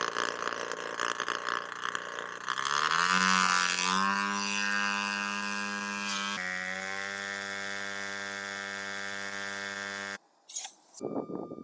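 A motor-like whine that winds up in pitch, then holds as a steady hum for several seconds before cutting off abruptly, followed by a short sharp burst.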